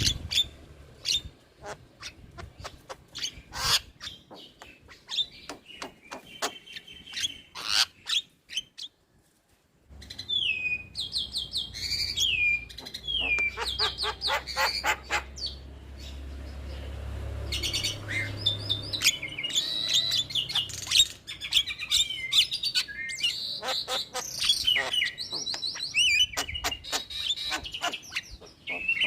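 Javan myna (jalak kebo) singing and chattering: a fast jumble of sharp clicks, whistles and downward-sliding calls. The song stops briefly for about a second roughly a third of the way in, then picks up again.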